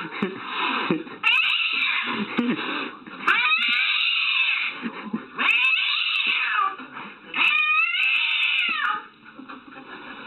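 A cat giving long, drawn-out meows, about five in a row, each a second or more long and coming roughly every two seconds, with the pitch bending up and down within each call.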